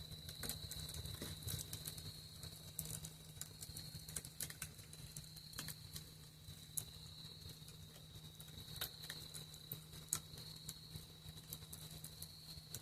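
Campfire crackling with irregular sharp pops, over a continuous high-pitched cricket trill and a low steady hum.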